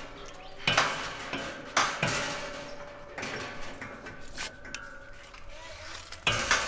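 A few sharp knocks and clanks, irregularly spaced and each ringing briefly, over a faint steady tone.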